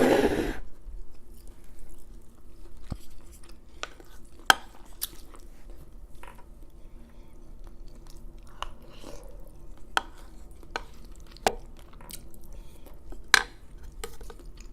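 Close-up eating sounds: chewing of pork chop and saucy rice and beans, with about five sharp clinks of cutlery against a plate.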